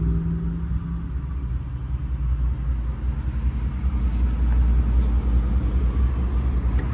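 A 1989 Chevrolet Caprice's 5.0-litre V8 idling: a steady low rumble.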